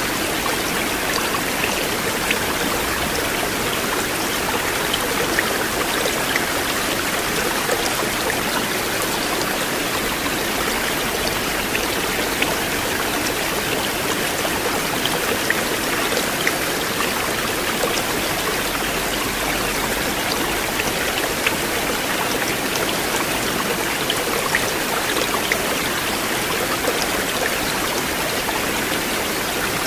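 River water flowing: a steady rush with scattered small splashing ticks.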